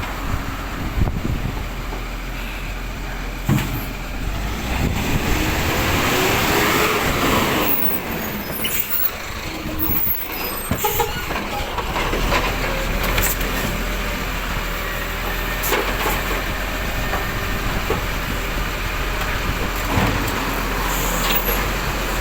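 Waste collection truck's diesel engine running steadily, revving up and back down about five to eight seconds in, with a few sharp clunks and knocks along the way.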